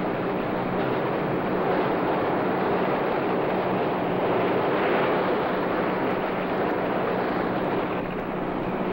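Steady rushing wash of sea water, with a faint low hum underneath.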